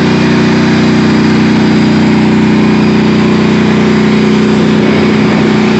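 Engine of a disabled tank still running steadily, a loud, even hum that wavers briefly near the end.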